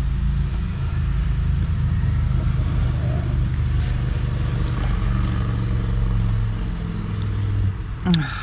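Steady low drone of a motor vehicle's engine running, with a few fixed low tones, dropping away near the end.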